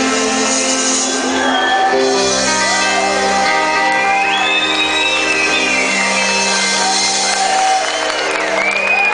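Live band holding long closing chords at the end of a song, with shouts and whoops from the crowd rising over the music in the second half.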